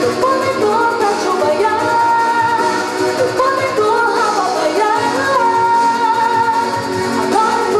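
K-pop song performed with a female singing voice over a backing track.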